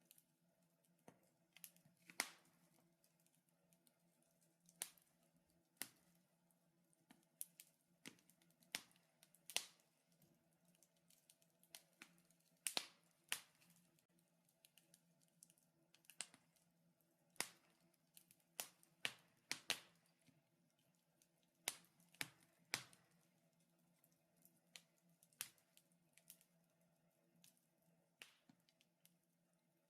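Wood fire burning in a fireplace, crackling with irregular sharp pops and snaps, a few every second or two, over a faint steady hum.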